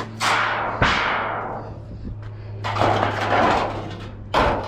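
Scrap metal pieces clanking and banging as they are handled and loaded: two sharp hits with a ringing decay in the first second, a scraping rattle around the middle, and another knock near the end.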